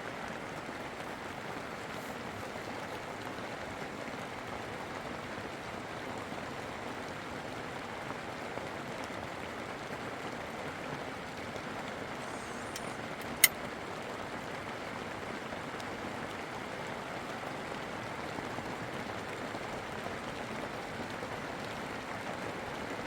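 Steady rushing of running water, without let-up, with one sharp click about halfway through.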